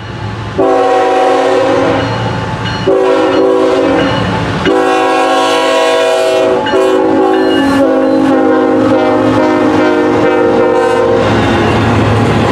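Diesel locomotive's multi-chime air horn sounding four blasts, the last held longest, as the train rolls through with a steady low rumble of engine and wheels.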